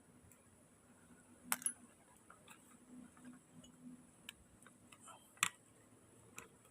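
Light, irregular clicks and taps of small metal parts of an opened grass-cutter engine being handled, with two sharper clicks, one about a second and a half in and one about five seconds in.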